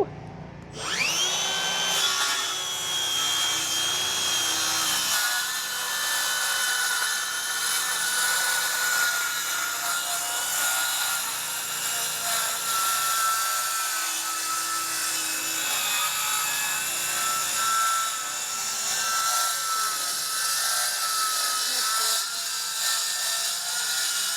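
Power saw spinning up with a rising whine, then cutting steadily through a sheet of plywood, its pitch sagging a little here and there under load.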